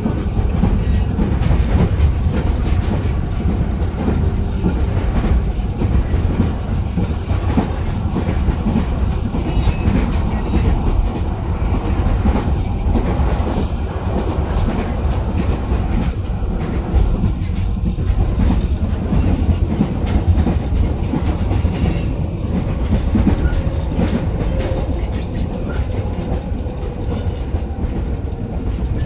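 JR 205 series electric train running along the line, heard from inside the car directly above its line breaker: a steady rumble of wheels on rail with clicking over the rail joints.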